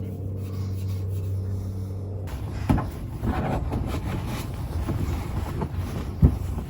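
A steady low hum stops about two seconds in, and is followed by steel wool scrubbing against a metal exhaust tip: uneven rough rubbing with a few sharp knocks.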